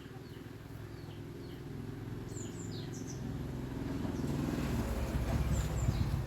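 Low motor hum growing steadily louder, with birds chirping briefly now and then.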